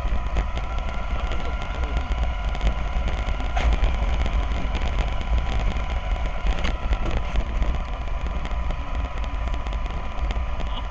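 Cabin noise of an Alexander Dennis Enviro400 double-decker bus under way: a steady low rumble with a faint constant whine and occasional light rattles.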